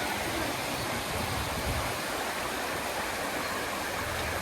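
Rushing water of a stream, a steady, even rush with no break.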